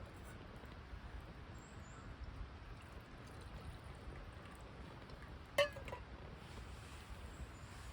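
A single sharp clink of metal camp cookware about five and a half seconds in, ringing briefly, followed by a smaller tick, over a faint steady background.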